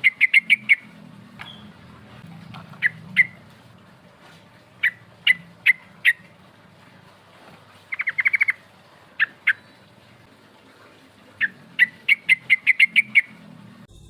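Yellow-vented bulbul calling in bursts of short, sharp notes: fast runs of six to ten notes at the start and near the end, pairs and triplets between, and a quick rattling trill about eight seconds in. A faint low hum runs underneath.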